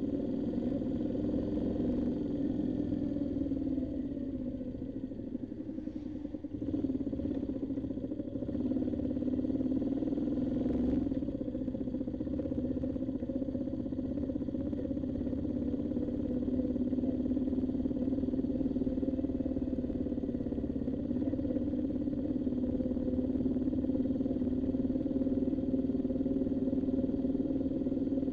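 Twin-cylinder motorcycle engine running under way. Its note falls as it eases off about four seconds in, picks up again a couple of seconds later, then holds steady.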